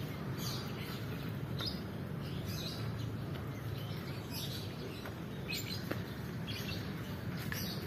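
A small bird chirping, short high calls repeated roughly once a second, over a steady low background hum.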